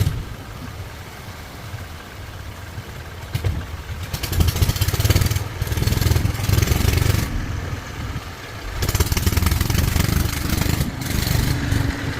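Motor vehicle engine running, its rumble rising and falling several times as it is revved.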